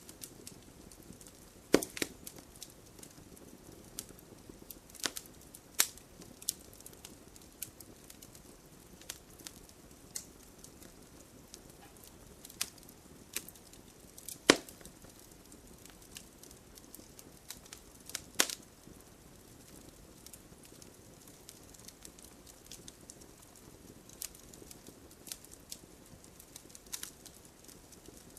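Wood campfire crackling: scattered small snaps and a few sharp, louder pops, the loudest about halfway through, over a faint steady hiss of the burning fire.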